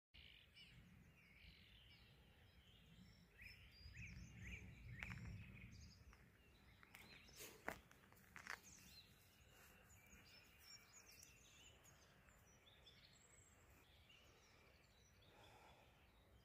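Faint chirping of small songbirds, many short calls overlapping, with two sharp clicks about eight seconds in.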